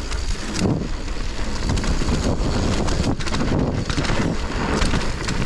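Wind rushing over the microphone of a mountain biker's camera while riding a downhill flow trail at speed, with tyres on dry dirt and scattered clicks and rattles from the bike.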